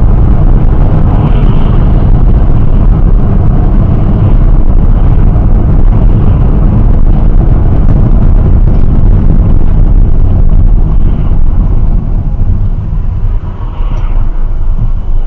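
Car on the move: loud, steady road and engine rumble, heaviest in the low end, cutting in abruptly.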